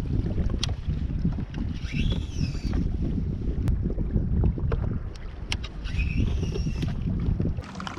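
Wind rumbling on the microphone as a fishing kayak moves across open water. A few high, sweeping bird calls come in about two seconds in and again around six seconds. The rumble cuts off abruptly just before the end.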